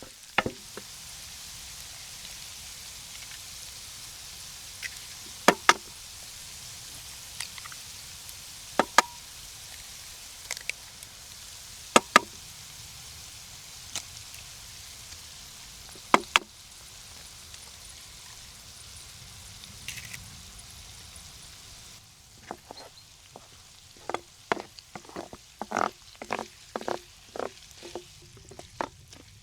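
Food frying in a pan, a steady sizzle with a sharp click every few seconds. About three-quarters of the way through the sizzle drops away and a quick run of clicks and knocks follows.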